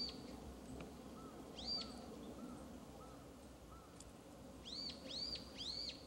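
A wild bird calling in short, arched, down-slurred notes: one at the start, one about two seconds in, and a quick run of three near the end. Softer, lower notes repeat in between over a faint outdoor background.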